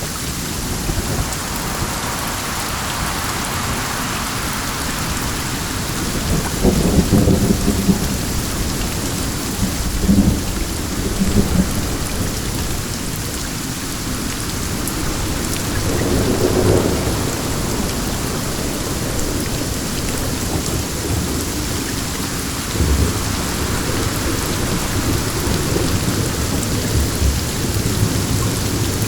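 Steady rain with wind, with low rolls of thunder rumbling up a few times over it.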